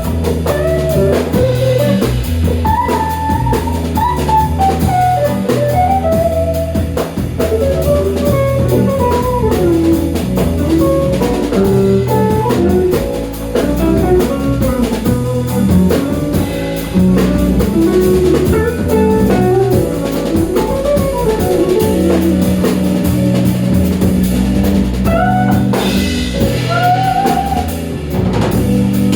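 Jazz-style instrumental band playing: a drum kit keeping a steady groove under bass and chords, with a lead melody that slides between notes.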